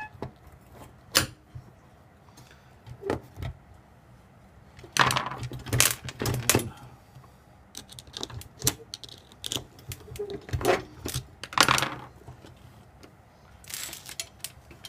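Metal parts clinking and rattling as a drive motor with its chain and screws is worked loose and taken apart by hand. The sound comes as scattered clicks and short clattery bursts, the loudest around five to seven seconds in and again near twelve seconds.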